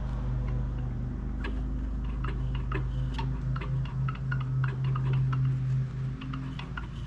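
Irregular light clicks and ticks, many in quick succession from about a second in, over a steady low hum.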